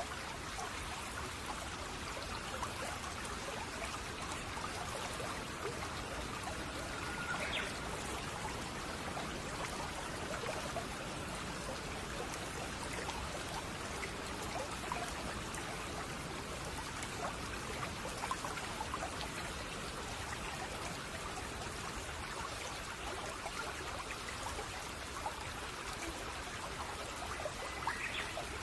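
Shallow brook babbling steadily over stones, a constant trickle and bubbling. Two brief faint chirps, about seven seconds in and near the end.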